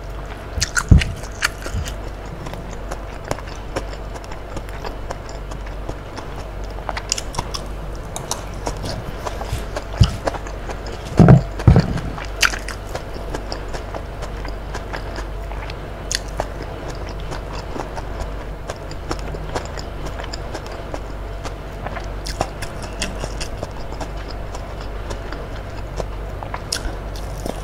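Close-up eating sounds: chewing and biting of tahu tek (tofu, bean sprouts and crackers in thick peanut sauce), with scattered small clicks and a few louder knocks about a second in and again around ten to twelve seconds.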